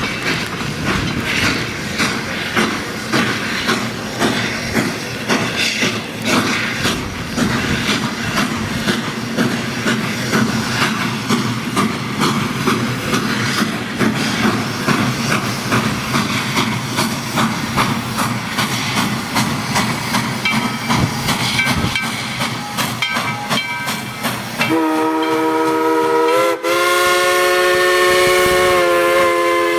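A steam train rolling along the rails, with a steady run of wheel clicks and clanks over a low rumble. About 25 seconds in, a multi-note chime steam whistle starts blowing a long chord; it breaks once briefly and keeps sounding.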